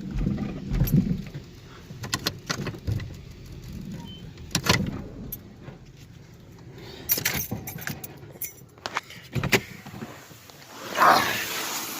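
Sharp clicks and clattering knocks, then about eleven seconds in a steady hiss of pressure-washer spray starts and holds.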